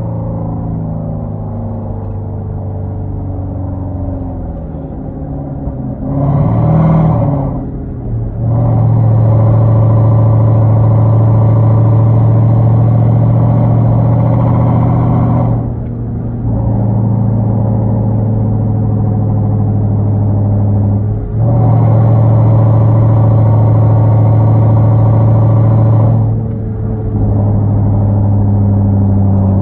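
Straight-piped Hyundai Genesis 5.0 V8 exhaust, with Flowmaster Super 10 mufflers, 2.5-inch pipes and no catalytic converters, while the car is driven. A quick rev comes about six seconds in, then two long stretches of loud steady drone under throttle, each cutting off sharply, with quieter running between.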